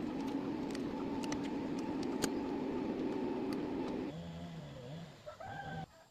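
A motor runs with a steady hum and scattered light clicks. About four seconds in it drops to a lower, wavering tone, then cuts off abruptly near the end.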